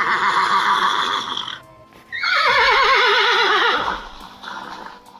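Horse whinnying twice: a rough first call, then a long whinny that falls in pitch with a quavering tremble. Background music runs underneath.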